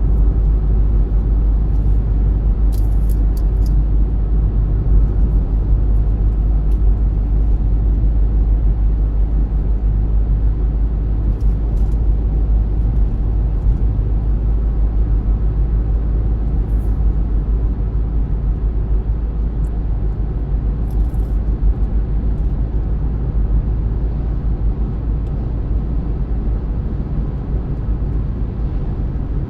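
A car driving at steady speed: a constant low rumble of tyres and engine, with a few faint high clicks now and then.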